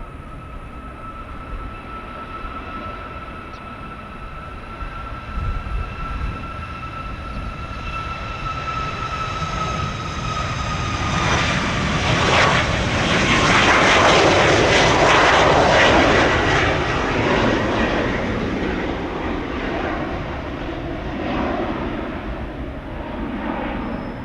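Jet airliner's engines passing close by on takeoff: a steady whine that dips slightly in pitch, then a broad roar that swells to its loudest about two-thirds through and slowly fades.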